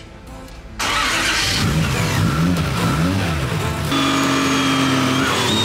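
Toyota 1JZ straight-six engine, loud from about a second in, revved up and down several times, then held at steady revs for about a second.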